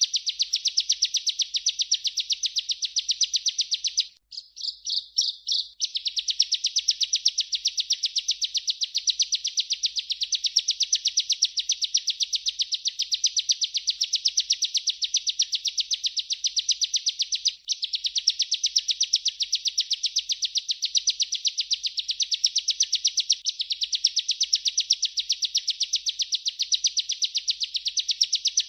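Ciblek (bar-winged prinia) singing a long, rapid rolling trill of high, fast-repeated notes, sung without letup. About four seconds in, the song breaks briefly into a few separate notes.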